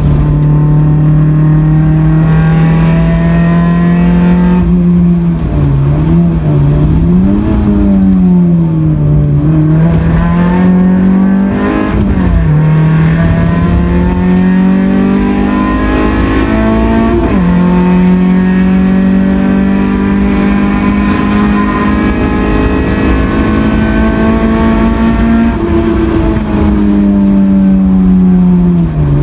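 Honda Accord CB7's engine under hard acceleration from inside the cabin, revving high on the track. The pitch dips and wobbles several times as it changes gear and slows for corners, with a sharp gear change about two-thirds of the way through.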